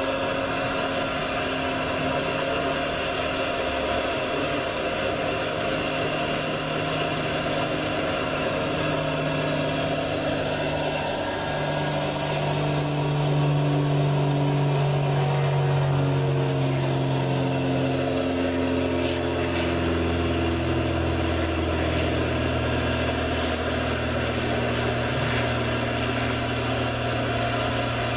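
Radio-controlled model machinery running steadily, its motor tones stepping up and down in pitch from about a third of the way through to near the end.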